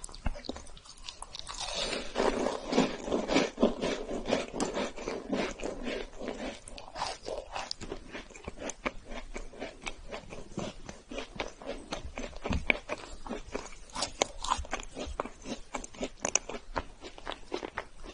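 A person biting and chewing a chocolate-coated sandwich cookie: a dense run of crunching a second or two in, easing after a few seconds into steady, smaller chewing crunches.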